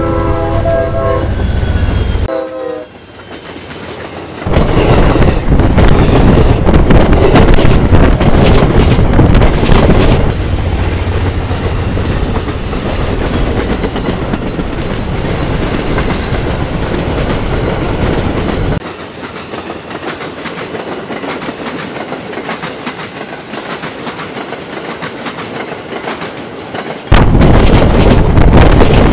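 An Amtrak passenger train's horn sounds a chord that ends about two seconds in. The train then passes at speed with a loud, steady rumble and clatter of wheels on rail. The level jumps abruptly between louder and quieter stretches.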